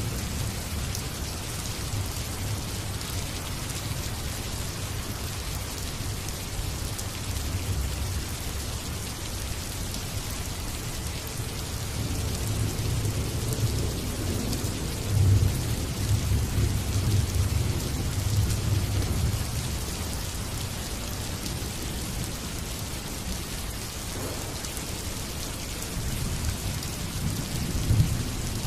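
Steady rain falling, with low thunder rumbling that builds about halfway through and comes again near the end.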